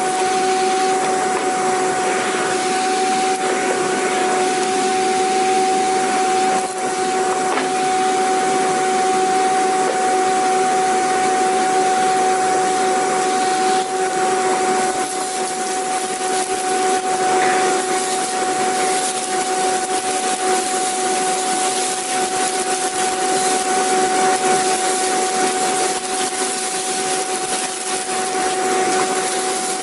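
Vacuum cleaner motor running steadily: a constant rushing hiss with a steady hum on top, not changing in pitch.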